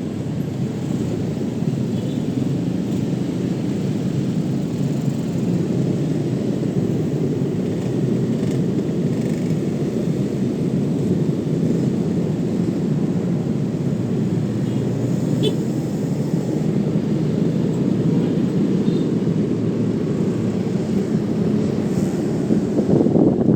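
Steady rumble of wind and road noise on the microphone of a moving motorcycle, with the engine and traffic blended in.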